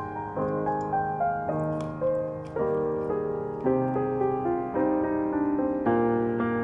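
Soft piano background music, chords struck about once a second and left to ring and fade.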